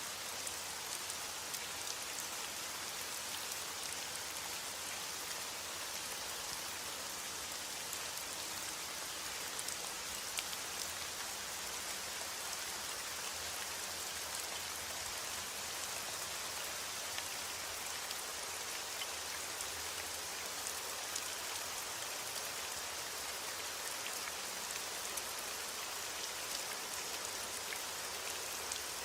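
Steady heavy rain falling, an even hiss with many small drop ticks and no breaks.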